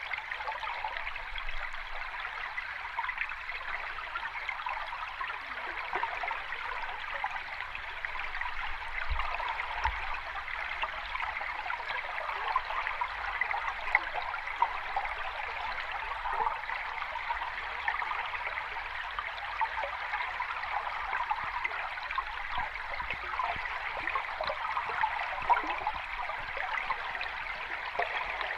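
Water of a small cascade running steadily: an even rushing with constant small splashes, mostly in the middle range and with little low rumble.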